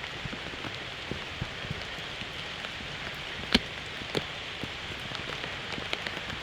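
Steady rain, with scattered drops tapping close to the microphone, likely on the plastic bag around the phone. One sharp tap stands out about three and a half seconds in.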